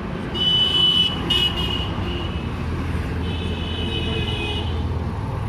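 A vehicle horn sounds twice, each time for roughly one and a half to two seconds, over a steady low engine rumble.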